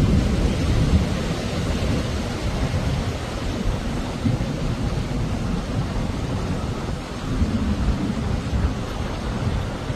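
Steady rushing storm noise with a deep rumble underneath.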